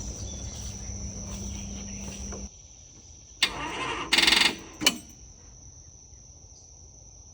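A tractor's starter system tries to turn over on a battery too flat to crank, even with a jump box on it: a brief loud rapid buzzing chatter about four seconds in, then a single click. Before that, a steady low hum cuts off about two and a half seconds in, and crickets keep up a thin high trill throughout.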